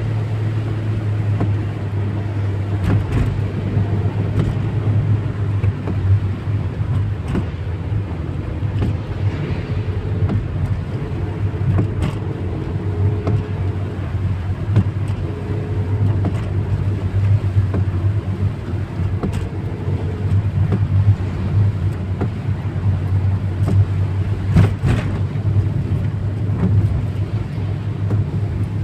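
Car being driven: a steady low rumble of engine and road noise, with a few short knocks.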